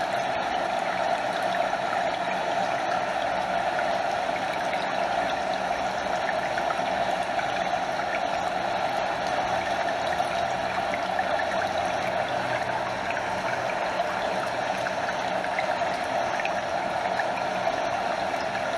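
Stream flowing steadily over a small waterfall, a constant rush of water with fine trickling and lapping close by.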